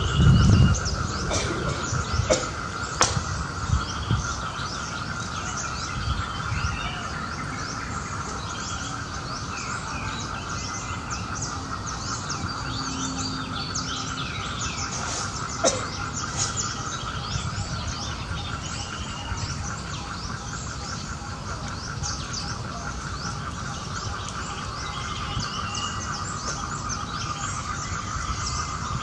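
Outdoor ambience of many small birds chirping in quick, short calls over a steady, high-pitched droning hum, with a few knocks and low rumbles in the first few seconds.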